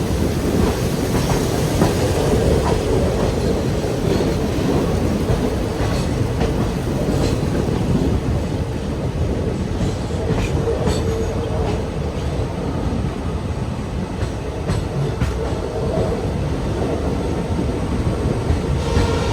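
Poorna Express passenger train running: a steady rumble of wheels on track, with irregular clicks over rail joints and a steady wheel squeal that grows louder at times.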